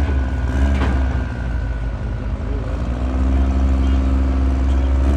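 Diesel pickup engine running loud and steady at the chassis dyno, a deep rumble that swells from about three seconds in, with a sharp knock just under a second in.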